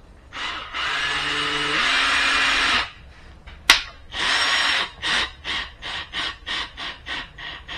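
Power drill driving screws: one long run with a step in motor pitch partway through, a sharp click, a shorter run, then a string of short trigger blips, two or three a second, easing the screws in so as not to strip them.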